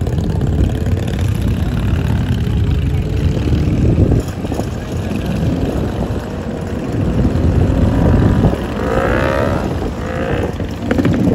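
A car engine running loudly with a continuous low, rough rumble, with a few rising and falling pitched sweeps about nine seconds in.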